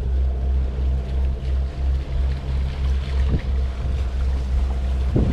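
A sailing yacht's engine running steadily as the boat motors along, with a constant hum and some wash of water and wind.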